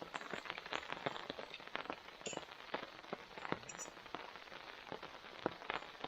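Rain falling, with many individual drops landing as irregular sharp ticks over a steady faint hiss.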